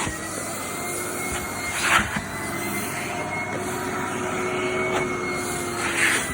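Vacuum cleaner motor running steadily with a whine, with brief surges of rushing air about two seconds in and again near the end.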